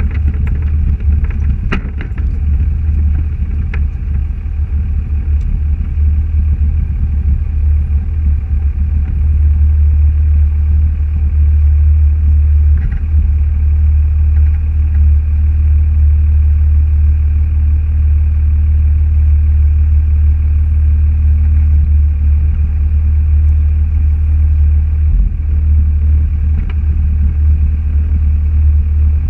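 Car driving, with a steady low rumble from the engine and road.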